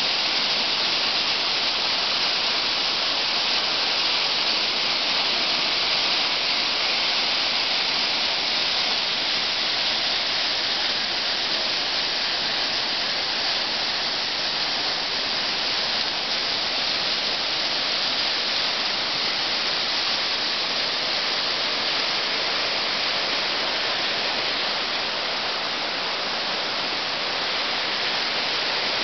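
Waterfall pouring, a steady, even rush of falling water that is strongest in the hiss.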